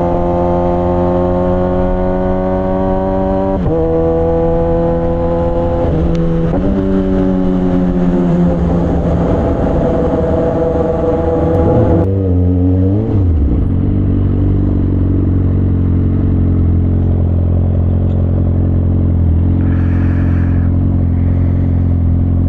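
Suzuki GSX-R600 inline-four engine through a straight-piped exhaust with no catalytic converter, pulling up through the revs with gear changes about 4 and 6 seconds in. Around 12 seconds the revs drop sharply, then the engine runs on steadily at low revs.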